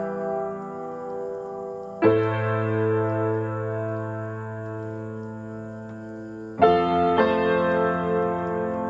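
Soft background piano music: slow sustained chords, a new chord struck about two seconds in and two more near the end, each ringing and slowly fading.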